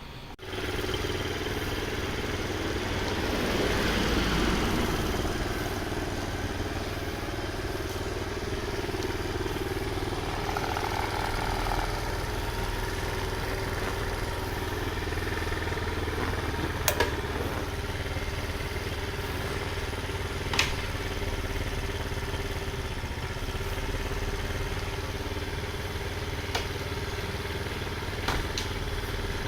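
Honda Jazz engine running, cutting in abruptly about half a second in and swelling for a couple of seconds before settling into a steady idle with a faint held whine. A few sharp clicks come through. The owner reports an abnormal noise from the transmission.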